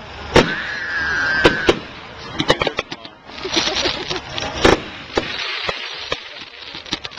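Aerial fireworks going off in a string of sharp bangs, with a quick run of crackles about two and a half seconds in and a hissing spray of crackle soon after; the loudest bang comes near the middle.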